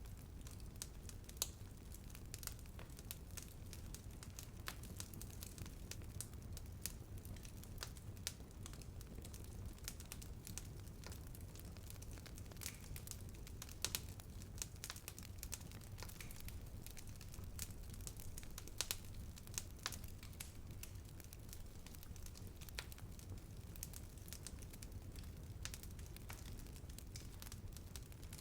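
Wood fire burning with a steady low rumble and frequent irregular crackles and pops, a few sharper snaps standing out.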